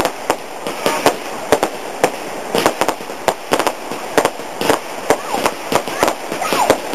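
Fireworks going off: an irregular run of sharp bangs and crackles, several a second, without a break.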